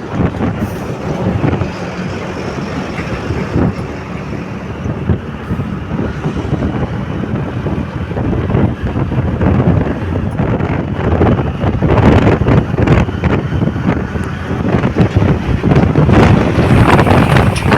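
Wind buffeting the microphone: a loud, irregular rumbling rush that grows stronger about twelve seconds in.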